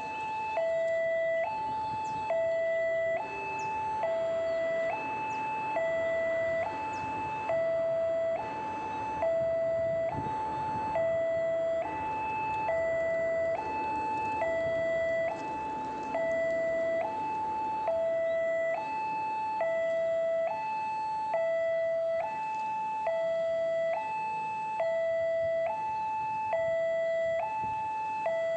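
Railway level crossing warning alarm sounding continuously, an electronic two-tone signal alternating between a lower and a higher tone about once a second, warning that a train is approaching. A fainter rumble runs underneath in the middle.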